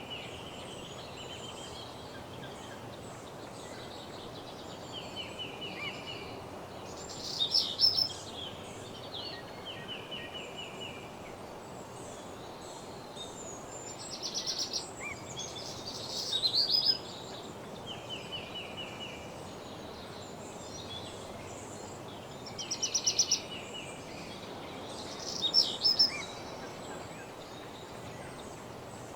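Woodland birdsong: several songbirds singing, with a loud, fast-note song phrase coming back every few seconds and quieter repeated phrases of short notes in between, over a steady low hiss.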